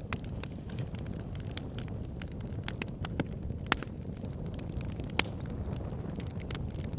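Wood fire burning in a fireplace: a steady low rumble of flames with frequent small crackles and a few sharper pops from the burning logs.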